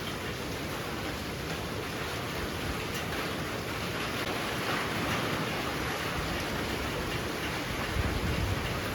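Heavy rain pouring down steadily, swelling briefly about halfway through, with a short low rumble near the end.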